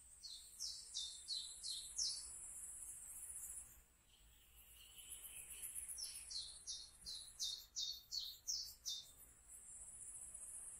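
A songbird singing two phrases of short, repeated falling whistles, the first over about two seconds and the second, longer one from about six to nine seconds in, over a steady high-pitched insect chirring.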